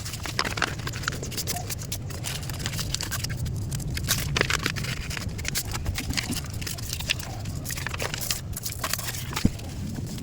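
Irregular light scrapes and taps of handwork on ceramic tile and paper, over a low steady hum.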